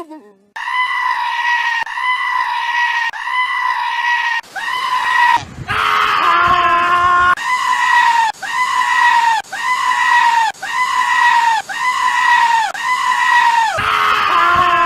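A goat screaming over and over, high, near-identical calls at about one a second, each bending down at the end. A lower, wavering call breaks in about five seconds in.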